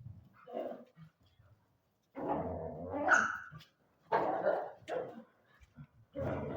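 A dog barking and vocalizing in several bursts with short pauses between them, one drawn out for over a second.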